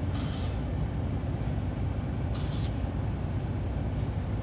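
Steady low rumble of a semi truck's cab, its diesel engine running, with two short hissing noises, one near the start and one about two seconds later.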